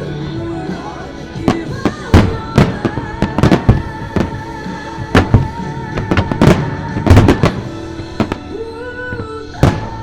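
Aerial fireworks shells bursting in irregular volleys of sharp bangs, densest from about 1.5 to 4 seconds in and again around 5 to 7 seconds. Under them a pop ballad plays, with a woman singing.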